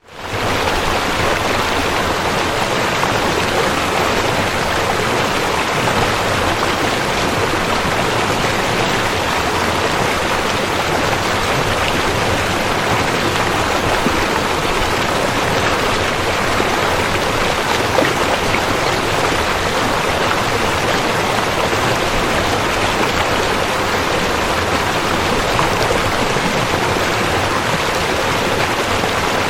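River water flowing, a steady even rush that fades in at the start.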